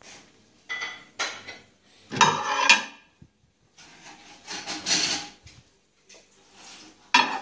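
Dishes and kitchenware being handled and set down: a few separate clatters and scrapes, the loudest about two seconds in, and a sharp knock near the end.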